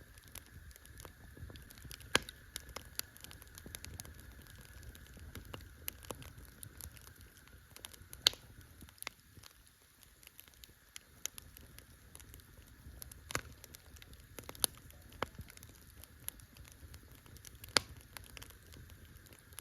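Campfire crackling: a steady scatter of small irregular snaps with a few sharper, louder pops, about two, eight, thirteen, fifteen and eighteen seconds in.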